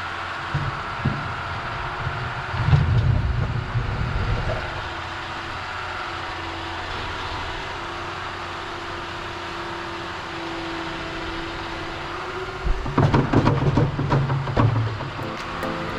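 John Deere 6145R tractor's six-cylinder diesel running steadily while pushing snow, with heavier low rumbling and clattering twice: about three seconds in and again near the end.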